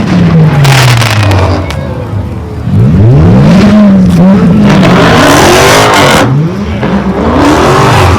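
A car engine revving hard, its pitch climbing and falling over and over, each sweep lasting a second or two. Bursts of tyre squeal come about a second in and again from about five to six seconds in, as the car is driven in a burnout or donuts.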